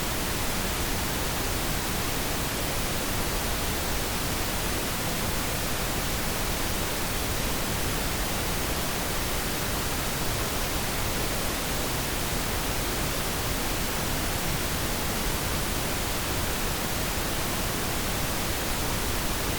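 Pink noise test signal: a steady, even hiss spread across the whole frequency range, at a constant level.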